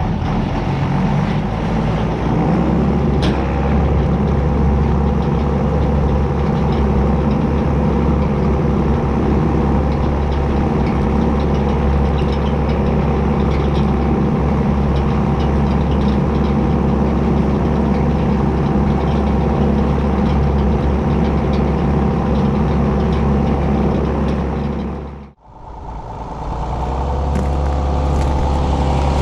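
John Deere 6910 tractor's six-cylinder diesel engine running steadily under load while pulling a subsoiler. About 25 seconds in the sound drops out abruptly and then fades back in to the same steady running.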